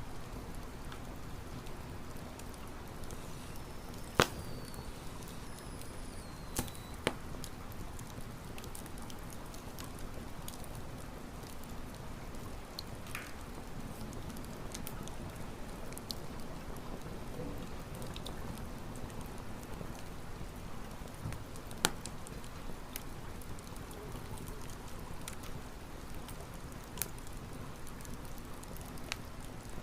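Wood campfire burning with a steady low crackle and hiss, broken by sharp single pops, the loudest about 4 and 22 seconds in. A faint high whistle glides downward between about 3 and 7 seconds.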